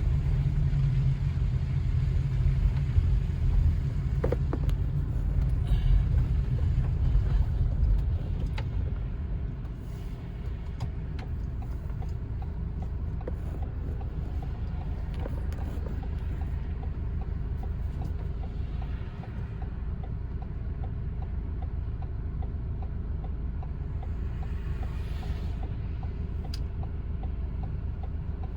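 Car driving slowly over a snow-covered, rutted road, heard from inside the cabin: a low road and tyre rumble, louder for the first eight seconds or so, then settling into a steadier, quieter drone with a few faint clicks.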